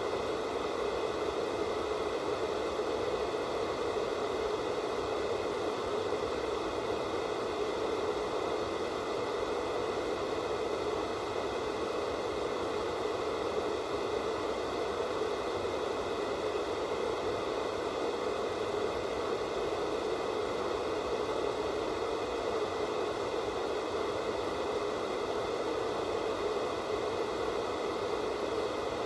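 Analog television static with no signal tuned in: a steady, unchanging hiss of white noise.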